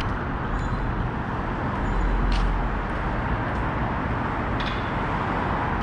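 Steady rushing noise of wind buffeting the microphone, with a fluctuating low rumble and two brief clicks.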